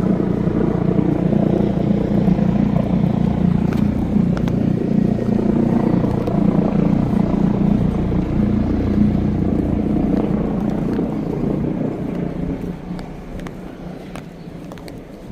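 A motor vehicle's engine running close by with a steady low hum, fading away over the last few seconds.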